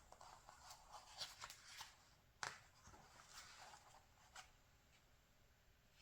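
Faint rustling of glossy magazine pages being handled and turned, with a crisp page snap about two and a half seconds in.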